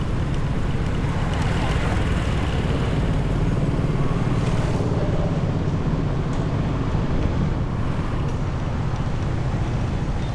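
Motorbike riding at road speed: a steady rumble of engine and wind buffeting the microphone, with road noise.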